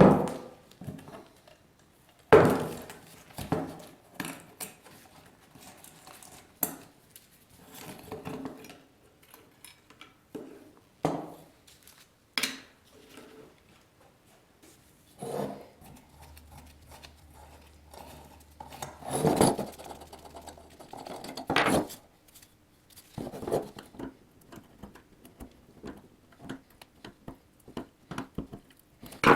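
Irregular clinks, knocks and scraping of metal parts and hand tools being handled, with several sharper knocks, the loudest a few seconds in and near the middle.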